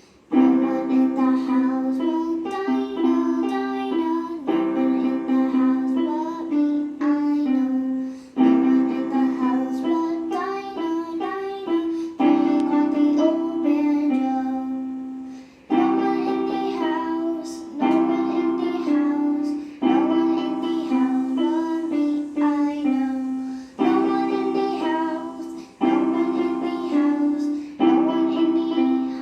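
A simple children's tune played on a musical instrument, in short phrases a few seconds long with brief gaps between them.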